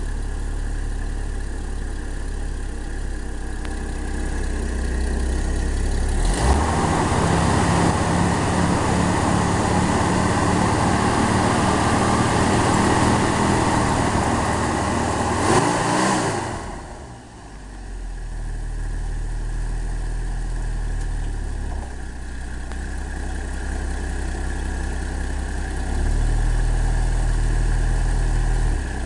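Old Ford car's engine running with its spark plugs freshly changed. It idles, is revved up and held at a higher speed from about six seconds in until about sixteen, then drops back to a steady idle, and it runs a lot more smoothly than the rough running that sent it for new plugs.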